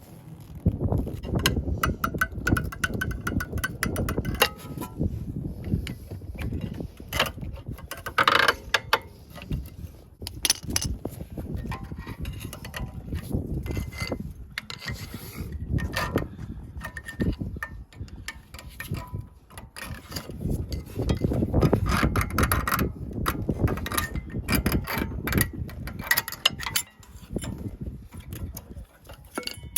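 Hand tools clicking and clanking against metal parts of a car's rear brake, with irregular knocks and handling noise throughout.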